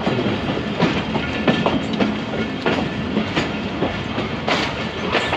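Passenger train running, heard from a carriage window: a steady rolling rumble of wheels on track, with irregular clacks about once or twice a second as the wheels cross rail joints.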